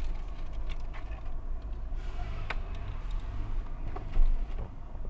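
A car engine idling, a steady low hum heard from inside the car, with a few small clicks and a single low thump about four seconds in.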